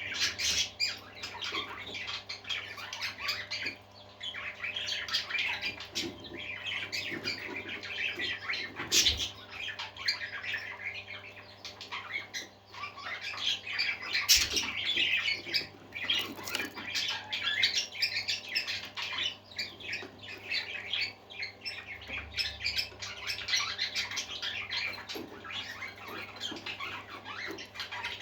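A group of parakeets chattering and warbling nonstop, with many overlapping chirps and squawks. Two sharp clicks come about a third of the way in and about halfway through, over a steady low hum.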